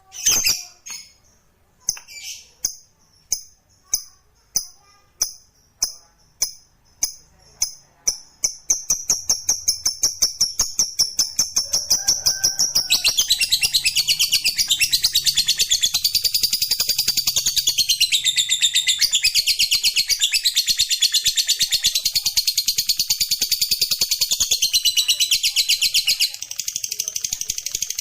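Lovebird singing its long ngekek chatter: high chirps at first about one or two a second, speeding up into a fast, continuous rattling trill about nine seconds in, which grows denser and louder and runs on almost to the end.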